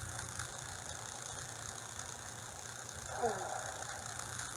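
A steady low mechanical hum, with a short falling voice sound about three seconds in.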